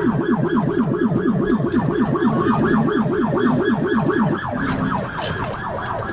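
Police car siren on a fast yelp, its pitch sweeping up and down about five times a second, which stops about four seconds in.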